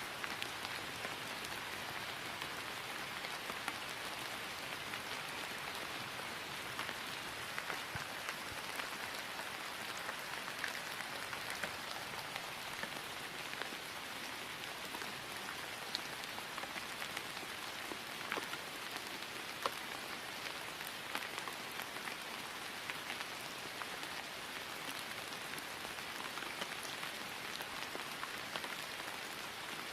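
Steady rain falling on grass: an even hiss with scattered individual drops ticking through it.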